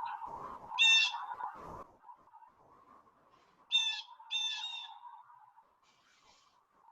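Blue jay giving harsh, scolding jay calls: one about a second in, then two in quick succession near four seconds, over a faint steady hum.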